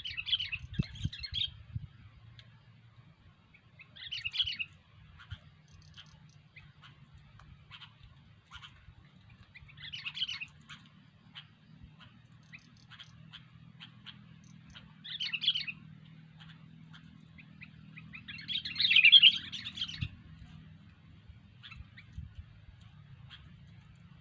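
Sooty-headed bulbuls giving short bubbly chirping calls in five separate bursts several seconds apart, the longest and loudest near the end, over a faint steady low hum.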